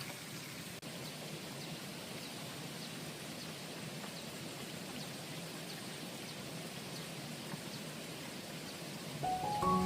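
Steady outdoor ambience: an even hiss with faint high chirps repeating through it. Soft tuned mallet-percussion music comes in near the end.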